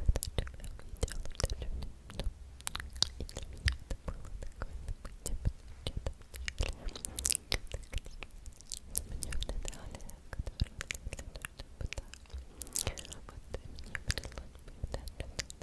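ASMR mouth sounds: close-miked clicking of lips and tongue, many irregular sharp clicks in quick succession, with faint whispering here and there.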